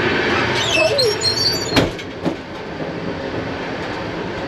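Passenger train carriage running, a steady rumble and rattle of wheels on track. In the first part there are brief high-pitched tones, then a sharp knock just under two seconds in and a fainter one soon after.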